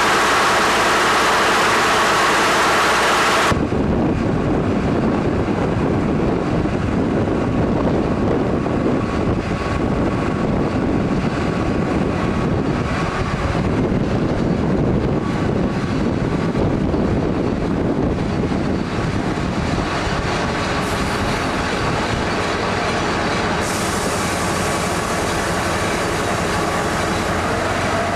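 DR-1A diesel multiple unit running on the track: a loud, steady rumble of the train and its wheels on the rails. About three seconds in, the sound cuts abruptly from a brighter, hissier running noise with a steady hum to a deeper rumble.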